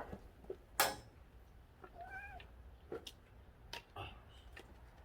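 A cat meows once, a short call that rises and falls, about two seconds in. A few sharp clicks or knocks sound around it, the loudest about a second in.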